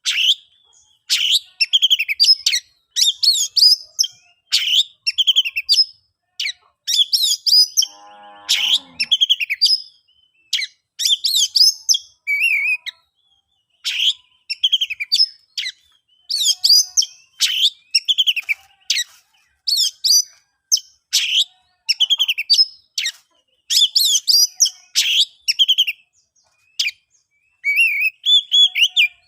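Oriental magpie-robin (kacer) singing its loud, full song: short bursts of high whistled and scratchy phrases, one after another about a second apart. A lower, buzzy note comes about eight seconds in.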